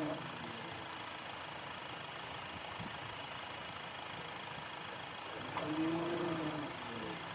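Honda Accord engine idling steadily. About five and a half seconds in, a brief pitched tone rises and then falls.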